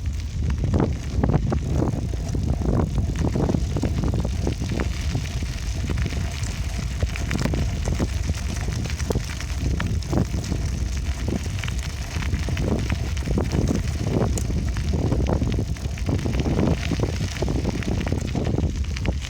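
A bicycle being ridden: a steady low rumble with frequent short clicks, rattles and knocks as it rolls over the surface.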